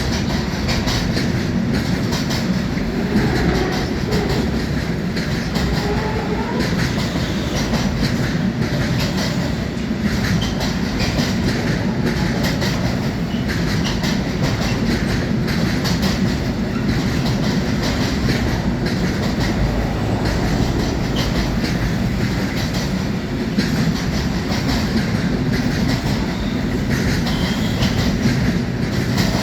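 A train rolling steadily past, its wheels clattering over the rail joints in a continuous clickety-clack. A few faint wheel squeals come a few seconds in.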